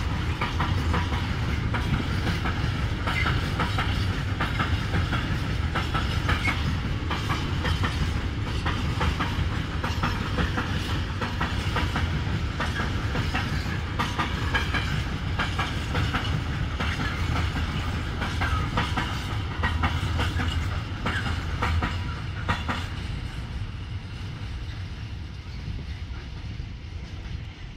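Freight train wagons rolling past on the rails with a steady clickety-clack of wheels over rail joints. It grows quieter over the last few seconds.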